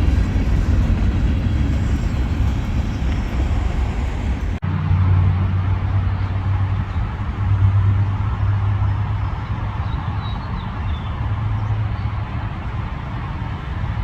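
Freight train rumbling past. About four and a half seconds in, the sound breaks off abruptly and gives way to a steady low engine drone.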